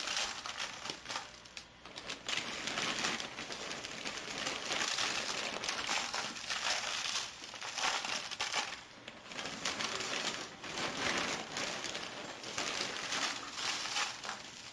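Loose cage-bottom bedding being poured from a bag and spread by hand, a rustling, crinkling noise that comes in repeated surges, with the bag crackling.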